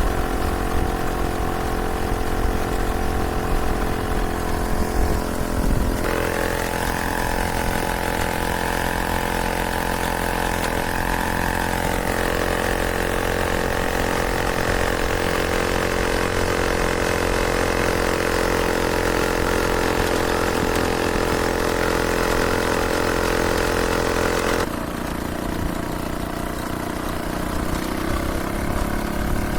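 The Solex 1700's small two-stroke engine running steadily. Its note rises about six seconds in, holds, then drops back lower near the end.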